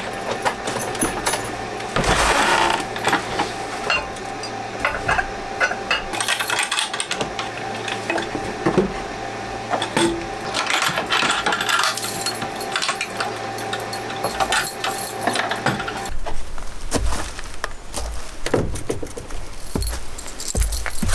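Many light metallic clinks, taps and rattles, like small hard objects being handled, over a steady hum that stops about three-quarters of the way through.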